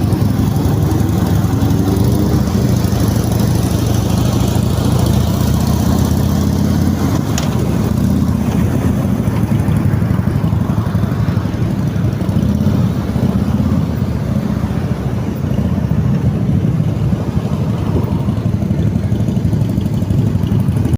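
Many motorcycle engines running together, a loud steady low rumble.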